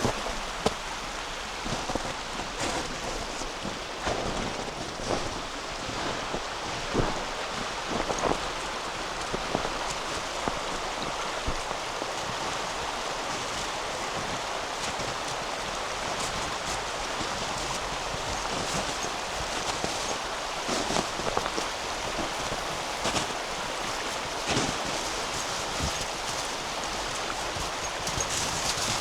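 Steady rush of a flowing river, with irregular footsteps crunching on compacted, frozen snow over it.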